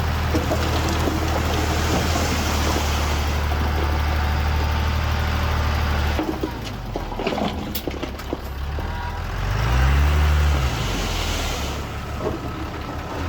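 Heavy diesel engine of earthmoving machinery running steadily. About six seconds in, the level drops abruptly and a few sharp metallic clanks follow. Near the end the engine revs up and back down once.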